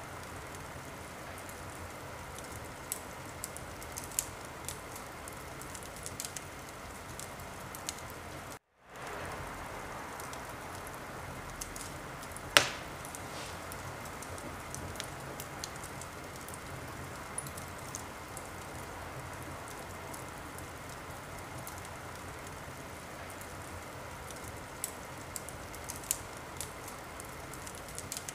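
Wood fire burning in a fireplace: a steady hiss with scattered small crackles, and one loud pop about twelve seconds in. The sound cuts out completely for a moment about nine seconds in.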